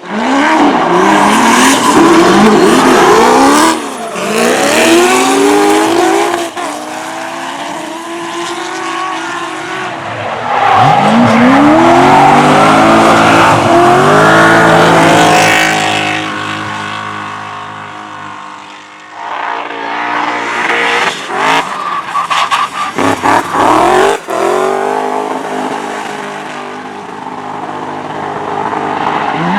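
Drift cars at full throttle, engines revving up and dropping back in quick repeated rises, with tyres squealing and skidding through the slides. The sound swells and fades several times as cars go by.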